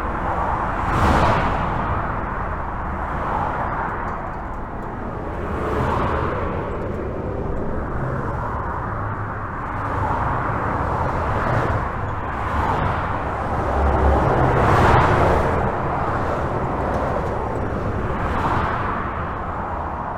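Steady highway traffic heard from under a bridge: a continuous rush of tyre and engine noise with individual vehicles swelling past every few seconds, the loudest about a second in and near 15 seconds in, with a low rumble underneath.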